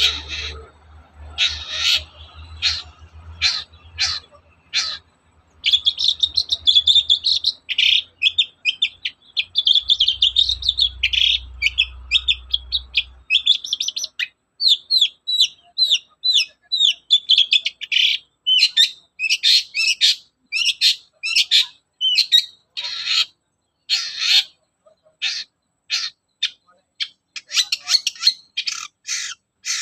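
Long-tailed shrike (cendet) singing: a few harsh separate notes, then a dense rapid run of song from about six seconds in, then strings of short chattering notes broken by louder harsh calls.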